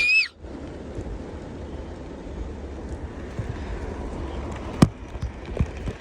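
Heavy rain falling steadily, with a low rumble underneath. A high cry cuts off at the very start, and there is one sharp knock a little before five seconds in.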